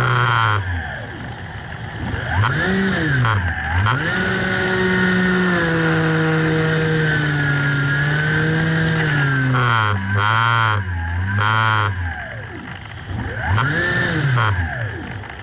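Radio-control plane's motor and propeller, its pitch falling and rising again several times as the throttle changes, with a warbling stretch a little past the middle.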